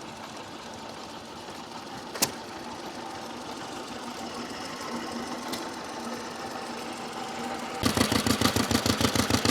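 Vintage stationary engines running. A faint steady engine noise with a sharp click about two seconds in gives way near the end to the loud, fast, even exhaust beats of a twin-cylinder stationary engine.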